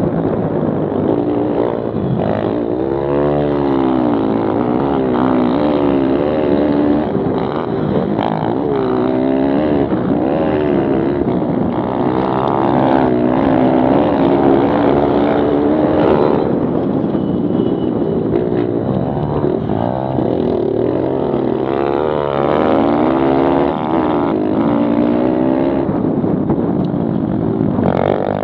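Several Kawasaki KLX110 pit bikes racing, their small single-cylinder four-stroke engines revving up and easing off again and again, the overlapping engine notes rising and falling in pitch.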